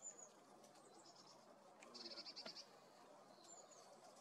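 Faint, high-pitched calls of small birds over a quiet background hiss: a few quick notes at the start, a fast run of notes about two seconds in (the loudest), and a couple more near the end.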